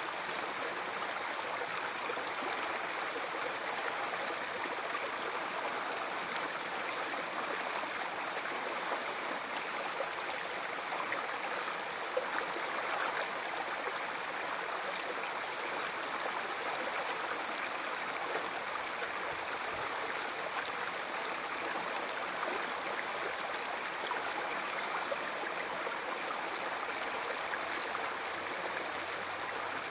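River water flowing over rocks: a steady rushing and babbling stream.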